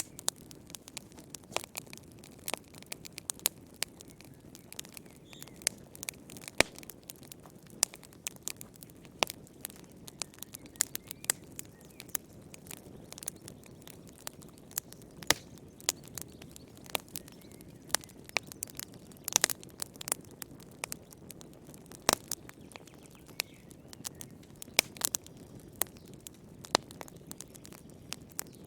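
Wood fire crackling in a fireplace: irregular sharp pops and snaps, several a second, over a low, steady rush of burning logs.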